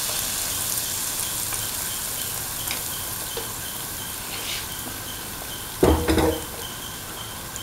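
Semolina pancake batter frying in a pan of hot oil: a steady sizzle with small crackles, slowly fading. A brief louder sound comes about six seconds in, and a faint high chirp repeats a few times a second in the background.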